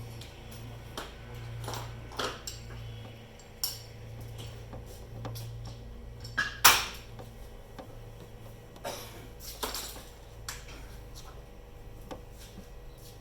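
Metal paintless dent repair tools clinking and tapping in scattered single knocks, the loudest about six and a half seconds in, over a steady low hum.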